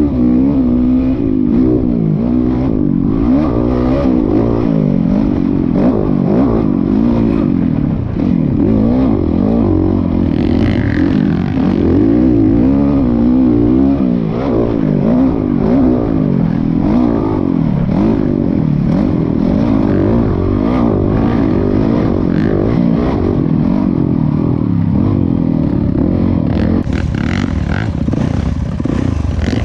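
Dirt bike engine running hard under changing throttle, its pitch rising and falling continually.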